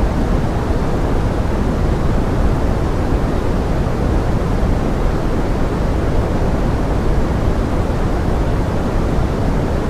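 Steady pink noise in the manner of forest rain: an even, deep hiss that stays constant and fades toward the highs, with no separate drops or other sounds standing out.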